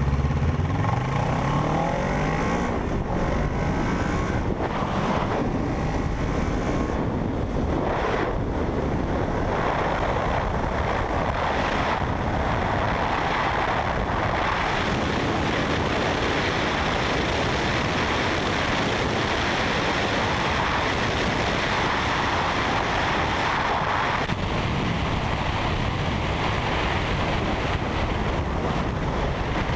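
Wind rushing over the microphone of a motorcycle under way at speed, with the parallel-twin engine running beneath it; the engine pitch rises in the first couple of seconds as the bike accelerates, then the wind noise holds steady.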